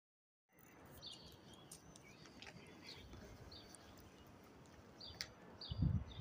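Outdoor street background with small birds chirping, short high chirps repeated every second or so. A short low rumble near the end is the loudest sound.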